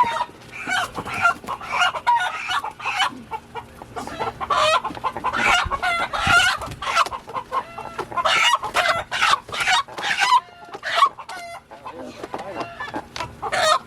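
Chickens squawking and clucking in a rapid, continuous run of short calls: the alarm of birds being grabbed as roosters are caught.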